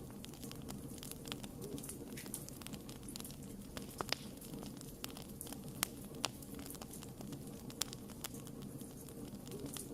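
Wood fire burning, with a steady low rumble of flames and irregular sharp crackles and pops from the burning wood, a few of them louder, around the middle.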